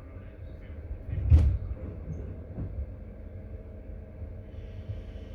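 Passenger railway carriage with a steady low rumble. About a second and a half in comes one loud clunk, and a softer knock follows about a second later.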